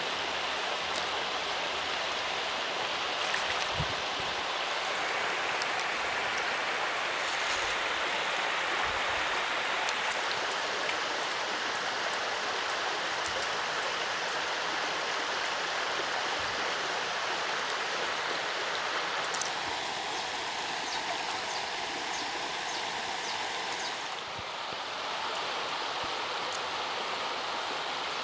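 Water flowing steadily, a constant rushing sound with a few faint knocks and splashes.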